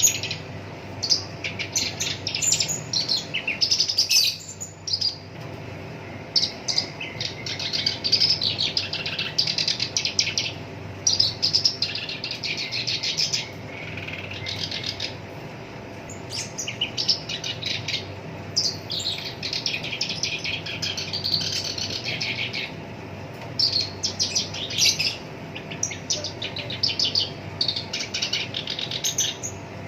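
Black-browed reed warbler singing: rough, rapid-fire chattering phrases, each a second or two long, broken by short pauses. A faint steady hum runs underneath.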